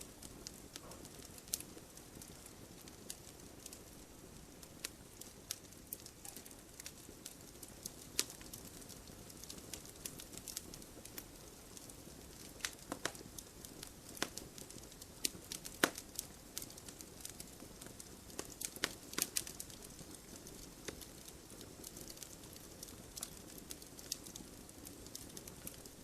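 Firewood burning in a wood stove: irregular sharp crackles and pops, some louder than others, over a soft steady hiss of the fire.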